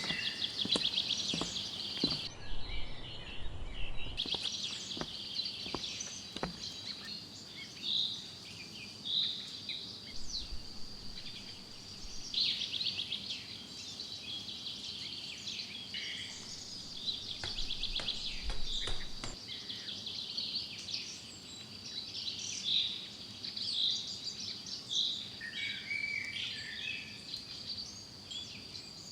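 Tropical forest ambience: a steady, high-pitched insect drone with fast trilling insects, and birds calling on and off.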